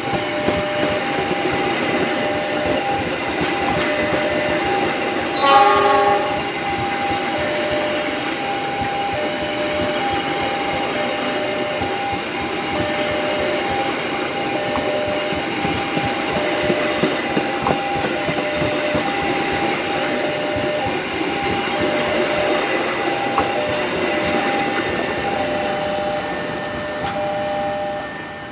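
A train passing close by, running steadily with wheels clacking on the rails, and a short horn blast about five seconds in. A pulsing electronic tone repeats under it throughout, and everything fades away at the very end.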